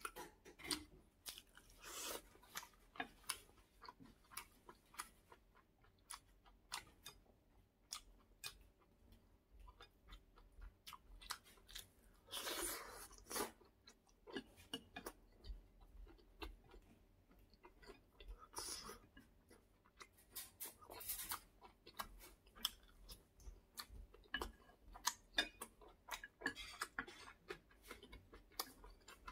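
A person chewing a mouthful of food, with many short clicks and mouth noises and a few longer, noisier sounds in between. Wooden chopsticks and a spoon click now and then against a ceramic plate.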